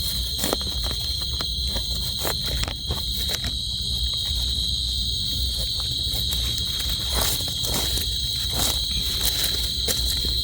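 Night insect chorus: a continuous high-pitched trilling buzz that holds steady throughout. Scattered light clicks and rustles sound over it.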